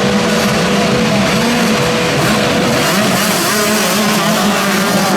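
Motocross bikes racing, their engines revving up and down with a wavering pitch, one holding a steady high note for the first few seconds.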